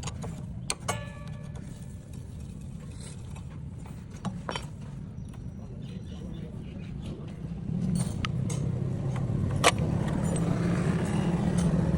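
Motorcycle engine running with a steady low drone and scattered light clicks. It grows louder about two-thirds of the way in.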